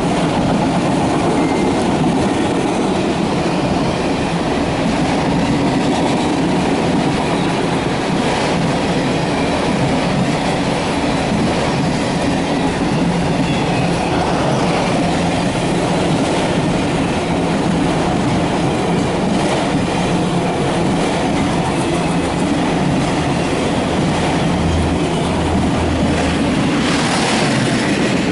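CSX empty autorack freight cars rolling past steadily, their wheels clattering over the rails.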